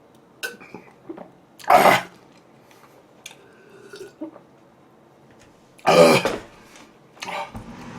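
A man clearing his throat with harsh coughs, two loud ones about four seconds apart, a shorter one near the end, and small mouth clicks between.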